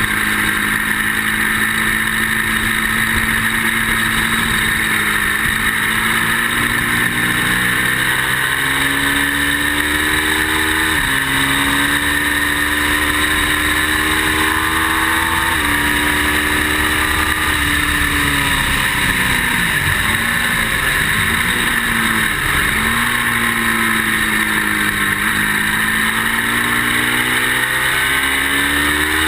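Ducati motorcycle engine under hard acceleration on a racetrack, climbing in pitch and dropping sharply at two upshifts about 11 and 16 seconds in, then falling and blipping through several downshifts before pulling hard again. A steady hiss of wind on the microphone runs underneath. The rider says the bike is not running great.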